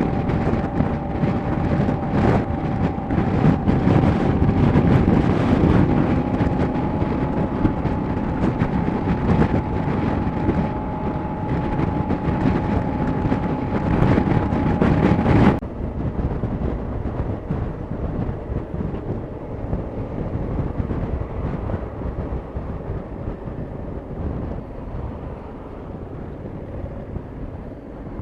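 Motorcycle riding at road speed: engine and wind noise with a steady whine. About halfway through the whine cuts off suddenly, and the sound turns quieter and duller, fading slowly.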